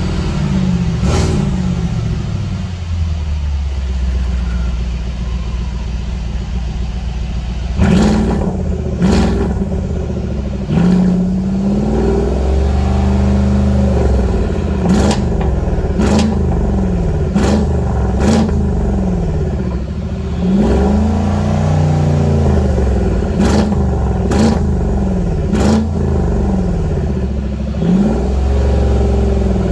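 Mercedes-Benz GLS500's twin-turbo V8 through a cat-back variable-valve exhaust with sport resonator, revved again and again with the pitch rising and falling, after a steadier stretch early on. Sharp cracks pop out between many of the revs.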